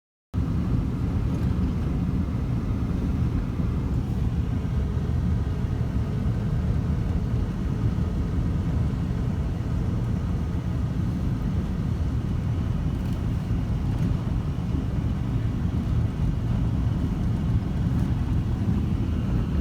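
Steady low rumble of a vehicle on the move, cutting in abruptly a moment after the start and holding an even level throughout.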